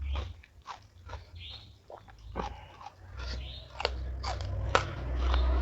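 Close-miked crunchy chewing and biting of food, with many sharp crackly crunches.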